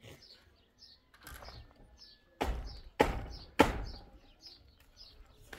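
A small bird chirping over and over in short, high notes. Three loud sharp knocks about half a second apart come in the middle, with a fainter knock a second in.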